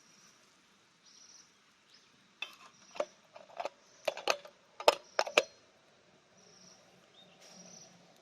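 Wood campfire crackling: a cluster of about ten sharp pops and snaps over roughly three seconds starting a few seconds in, the loudest near the middle of the cluster, then only a faint background again.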